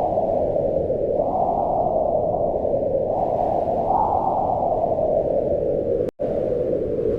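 Wind blowing in gusts: a low rushing sound that swells and eases, with a brief cut to silence about six seconds in.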